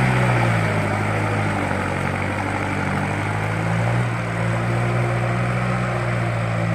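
Kubota farm tractor's diesel engine running steadily under load while pulling a plough through heavy clay soil. Its note sags slightly and recovers a couple of times.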